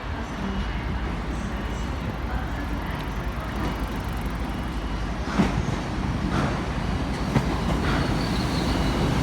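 GWR Class 800 train, unit 800321, running into the platform with a steady rumble that grows slightly louder, and a few sharp knocks in the second half.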